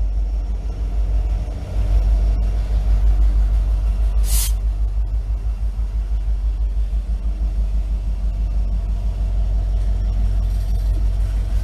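Freight train passing close by: a diesel locomotive's engine rumble gives way to loaded tank cars rolling over the rails, a heavy, steady low rumble. A short hiss comes about four seconds in.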